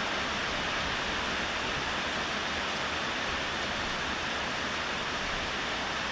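Heavy, steady rain pouring down, a constant hiss of rain on the ground and water.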